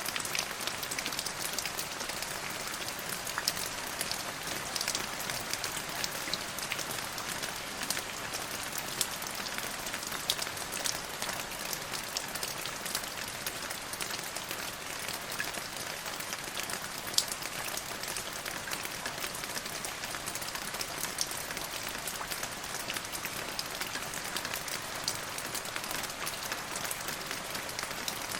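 Steady rain falling on a surface, a constant hiss with many close, sharp drop ticks scattered through it.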